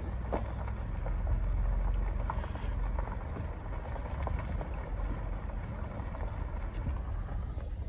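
A car driving on a road: a steady low rumble of road and engine noise, with a few light clicks and knocks.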